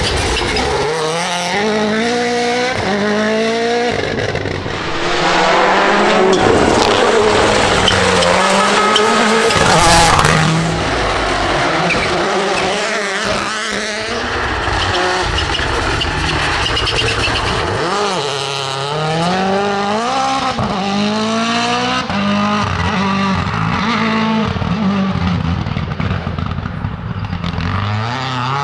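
Rally car engine revved hard on a special stage, its pitch climbing and dropping again and again through gear changes and lifts off the throttle. It is loudest from about five to ten seconds in, as the car comes close.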